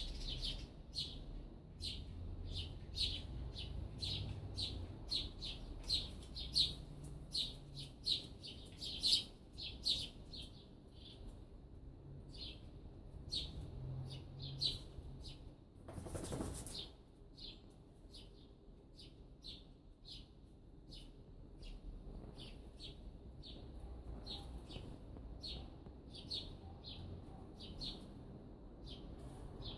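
A small bird chirping over and over, short sharp chirps about twice a second, over a low background rumble. About halfway through, a brief rushing noise lasting around a second.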